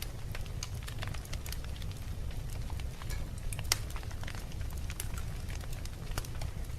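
Wood fire burning in a fireplace: a steady low rumble of the flames with irregular crackles and pops from the logs, the sharpest snap a little past halfway.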